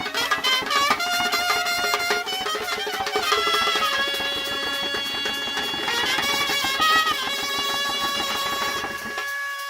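Traditional drum-and-wind band music: a wind instrument plays a melody in long held notes over fast, dense drumming.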